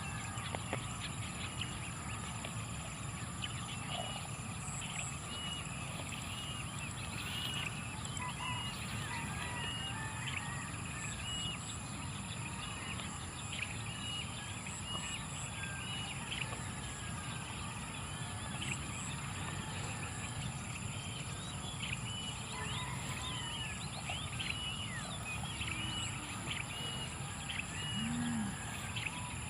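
Rural outdoor ambience: many short bird chirps, repeated again and again, over a steady high-pitched drone and a low rumble.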